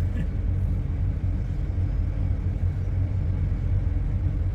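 Steady low rumble of a car moving slowly through heavy traffic, its engine and road noise heard from inside the cabin.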